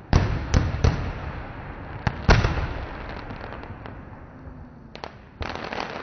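Aerial firework shells bursting overhead: a run of sharp bangs in the first two and a half seconds, the loudest about two seconds in. Dense crackling starts near the end.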